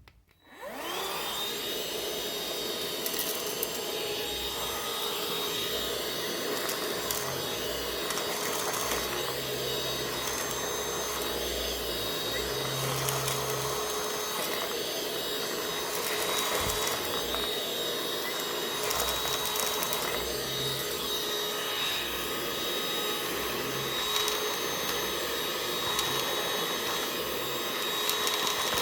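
Parkside Me PMSSA 8 A1 8-volt cordless handheld vacuum cleaner switched on about half a second in: the motor spins up with a rising whine and then runs steadily with a high whine, over an uneven low rumble as it is worked over the surface.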